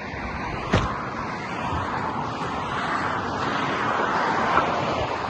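Steady outdoor background noise with one sharp click a little under a second in.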